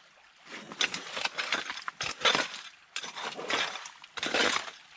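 Gravel and stones being dug and scooped into a gold pan for a test pan: about five rough scraping strokes with stones clinking against each other.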